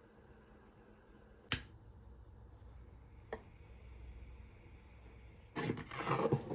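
Household handling sounds: a sharp click about one and a half seconds in, a fainter tick a couple of seconds later, then about a second of rustling or scraping near the end.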